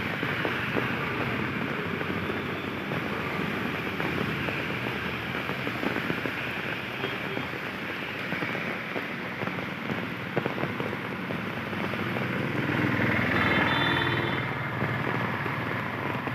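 Steady rain falling, a dense patter of drops, with a vehicle passing in a louder swell about thirteen seconds in.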